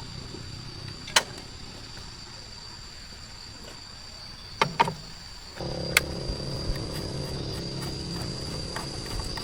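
A few sharp knocks, then a motor starts suddenly a little past halfway and keeps running steadily, over a thin steady high whine.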